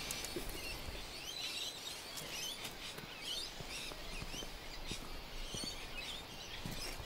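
Quiet outdoor background with small birds chirping on and off.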